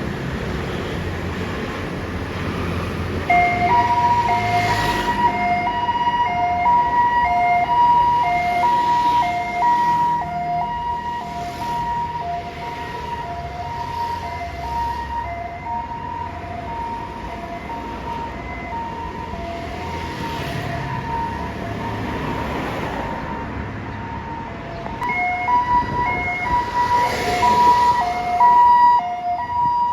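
Ambulance siren sounding a two-tone hi-lo wail, alternating between two pitches about twice a second. It starts about three and a half seconds in over traffic and engine noise, weakens in the middle and grows loud again near the end.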